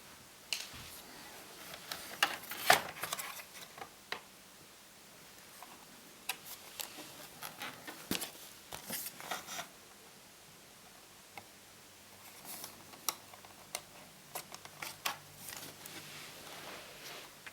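Plastic top cover of a laptop being worked off the chassis by hand: irregular clicks and short scrapes of plastic, with a sharper cluster of clicks a few seconds in.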